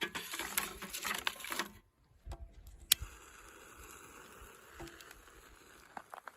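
Campfire burning in a homemade fire pit: a dense run of crackles and rustling for the first couple of seconds, a single sharp pop about three seconds in, then a faint steady hiss with a few scattered small crackles.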